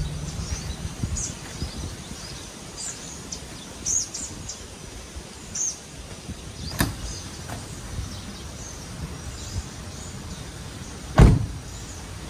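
Outdoor ambience with small birds chirping now and then over a steady background noise. There is a sharp knock about seven seconds in and a louder thump near the end.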